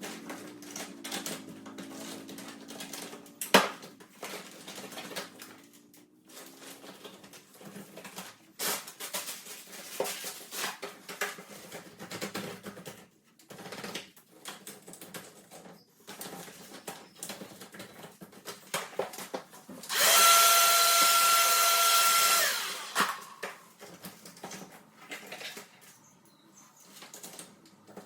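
Scattered clicks and knocks of hands working on a split-system air conditioner, with one sharp knock early. About 20 s in, an electric blower runs for about three seconds with a steady whine, drying the freshly washed unit, then cuts off.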